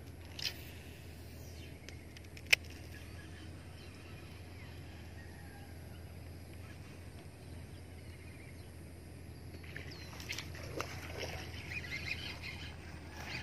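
Quiet open-air ambience with a steady low hum, a single sharp click about two and a half seconds in, and birds starting to call near the end, in a duck-like chatter.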